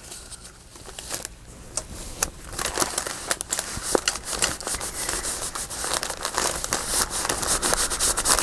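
Paper crinkling and rustling as it is handled, with a few scattered crackles at first, growing denser and louder after about two and a half seconds.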